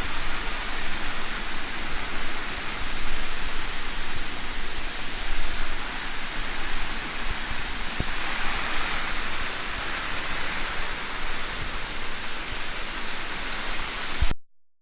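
Heavy monsoon rain pouring down steadily. It cuts off abruptly just before the end.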